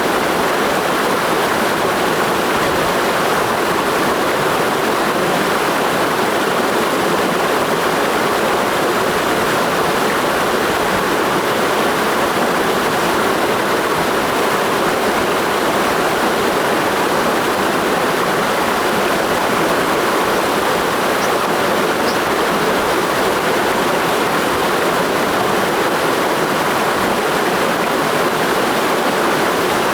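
Clear mountain stream flowing, a steady, unbroken rush of water.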